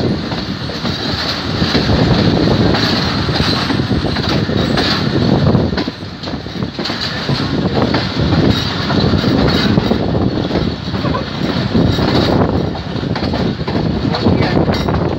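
Moving passenger train heard from its open coach doorway: a continuous loud rumble of steel wheels running on the rails, with a brief lull about six seconds in.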